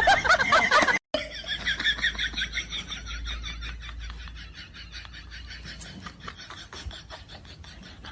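An animal's quick, repeated high-pitched calls, several a second, growing gradually fainter over several seconds.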